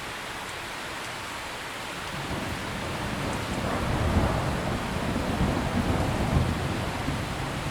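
Steady heavy rain hiss with a roll of thunder that builds about two seconds in, rumbles loudest in the middle, and eases off near the end.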